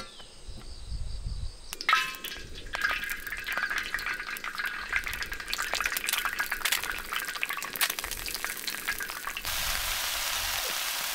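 Egg and bacon frying in oil on a round nonstick griddle pan: a spattering crackle with a few utensil clicks and clinks around two seconds in, turning into a steady, louder sizzle about nine and a half seconds in.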